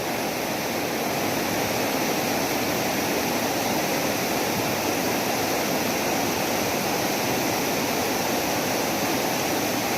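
Río Pance river water rushing steadily, an even unbroken rush.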